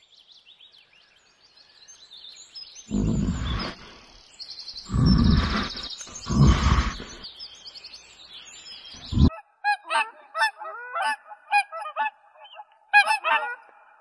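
Faint bird chirping, then a brown bear growls three times, each a deep rough growl about a second long, with a brief fourth growl a little later. After that, waterfowl honk over and over in quick, overlapping calls.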